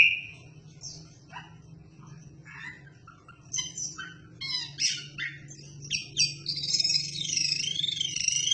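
Wambi bird singing: scattered short high chirps, then, about six seconds in, a loud unbroken warbling song with a wavering pitch.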